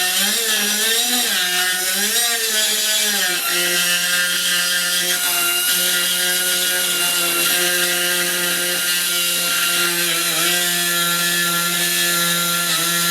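Air-powered die grinder running against the car's body metal, a steady whine whose pitch wavers and dips for the first few seconds as it bites, then holds level, with another short dip about ten seconds in.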